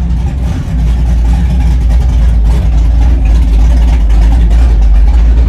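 Car engine rumbling low and steady, the rumble growing louder a little under a second in.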